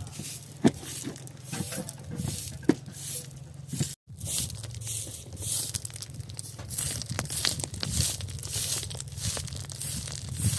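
Repeated rustling and crinkling handling noise with scattered sharp clicks over a steady low hum; the sound cuts out completely for a moment about four seconds in.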